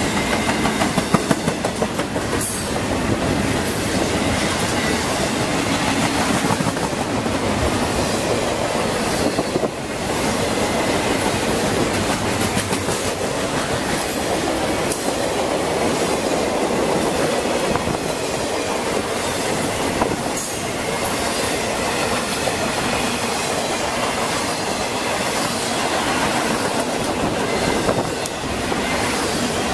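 Freight train of double-stack container cars and empty low-sided freight cars rolling past. Steel wheels rumble and rattle steadily on the rail, with a scattering of clicks as wheels cross rail joints.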